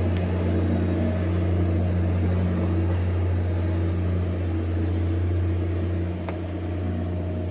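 Steady low diesel drone of a Philippine National Railways commuter train passing below, with a constant deep hum and a stack of steady tones above it. It eases off about six seconds in as the train moves away.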